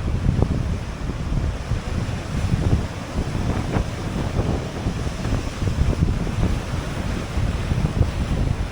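Wind gusting on the microphone, with ocean surf behind it.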